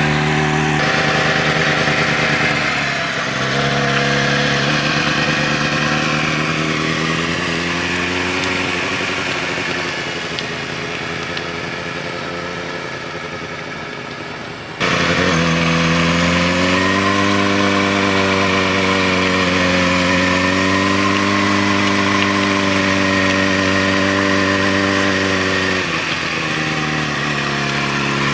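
Motorcycle engine running steadily, its pitch slowly rising and falling with the throttle. About fifteen seconds in, the sound cuts abruptly and comes back louder.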